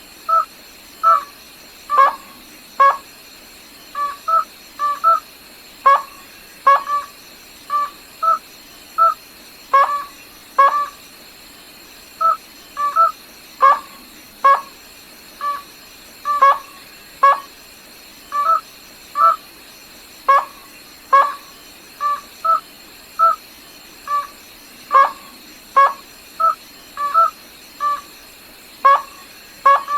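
A rail, the gà nước họng trắng, calling over and over in short, clipped pitched notes, about one to two a second in uneven pairs and clusters.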